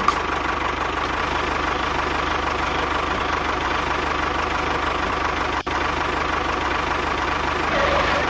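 Steady engine idling sound with a fast low chug, cutting out for an instant a little past halfway through.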